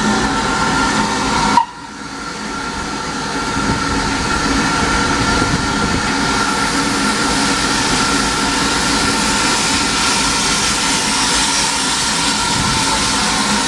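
Small steam locomotive's train: a steady hiss of steam with a thin, whistle-like tone through it. The sound cuts off suddenly about a second and a half in, then the hiss builds back up over a few seconds and holds steady.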